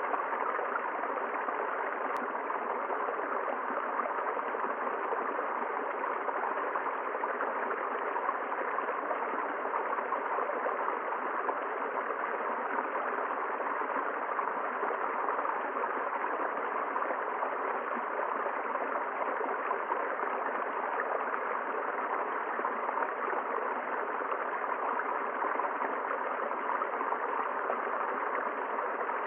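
River water flowing, a steady, unbroken rush of moving water.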